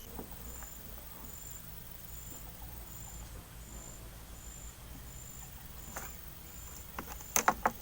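An insect chirping, one short high note repeating evenly a little more than once a second, over a low steady background. A few sharp knocks come near the end.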